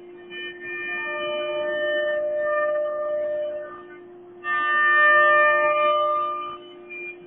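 CNC router spindle whining steadily at high speed, with two passes of the bit cutting into the workpiece that add a louder, higher ringing whine: one about a third of a second in lasting over three seconds, and a louder one from about four and a half seconds in for two seconds.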